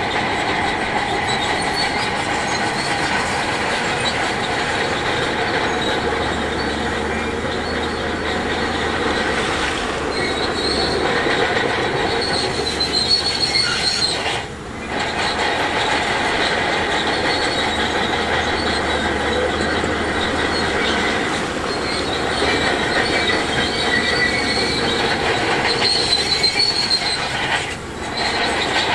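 Bulldozer working, its engine running under a steady metallic squealing and clatter from the steel crawler tracks. The sound drops away briefly twice, about halfway through and near the end.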